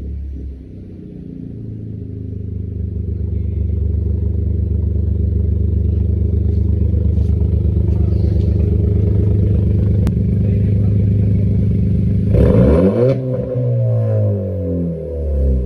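VW Golf Mk7 engine through a custom exhaust, revs held and the note slowly getting louder for about twelve seconds. Then the revs drop sharply with a brief crackle from the exhaust, and the engine is blipped up and down again near the end.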